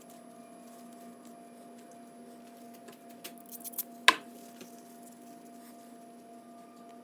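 Small carburetor parts being handled: a few light clicks, then one sharp click about four seconds in, over a steady faint hum.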